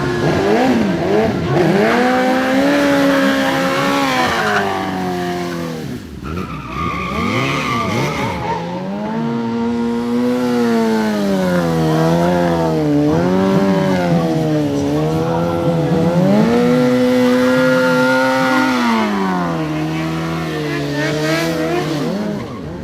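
Superbike engine revved hard and held high for a few seconds at a time, dropping and climbing again several times during rolling burnouts, with tyre squeal and rumble from the spinning rear wheel.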